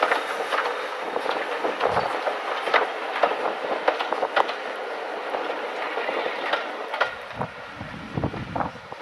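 Heritage railway train rolling past, with wheels and carriages making irregular clicks and clatter over a steady rushing noise. A deeper rumble comes back about seven seconds in.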